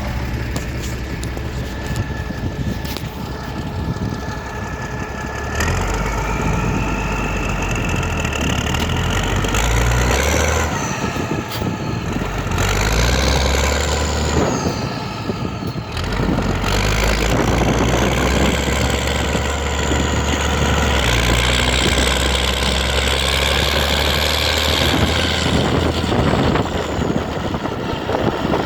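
A large engine running, with a whine that rises in pitch and later falls away, over a deep rumble.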